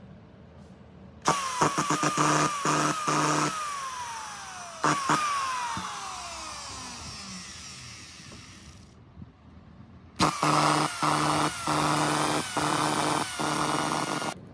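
DeWalt DW255 drywall screw gun's electric motor being test run in short trigger pulls. Each pull brings it up to a high whine that cuts in and out several times. After the first burst and a single pull near five seconds, the motor coasts down with a long falling whine. Another string of quick bursts begins about ten seconds in.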